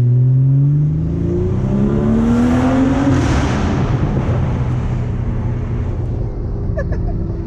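Car engine accelerating hard, its note rising steadily for about three seconds, then a loud rush of engine and road noise that settles back into a lower steady running note.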